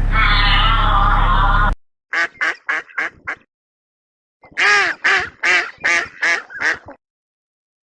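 A loud pitched sound over a steady low hum cuts off abruptly about two seconds in. Then a bird gives a quick run of four short calls, and after a pause of about a second, a run of seven more.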